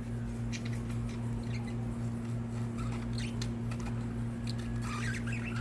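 Pet budgies settling for the night: faint, scattered little chirps and soft ticks, with a few more chirps near the end, over a steady low hum.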